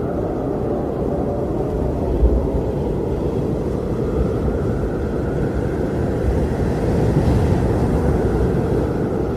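Strong blizzard wind blowing, a steady low rushing roar that swells and eases slowly, a little stronger near the end.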